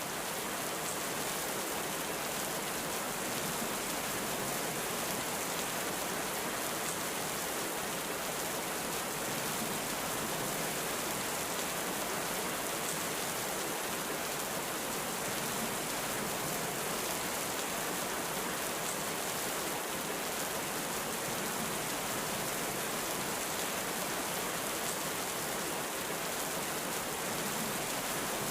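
Heavy rain falling steadily: an even, unbroken hiss with no thunder rumble or separate impacts.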